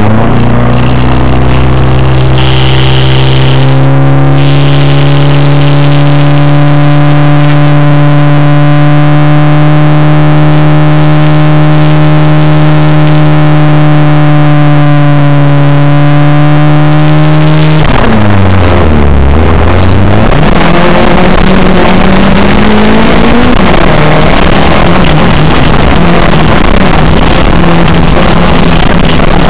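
Car engine heard from inside the cabin, held at steady raised revs while the car waits for a standing start. About eighteen seconds in the revs dip sharply, then climb again as the car launches and accelerates away.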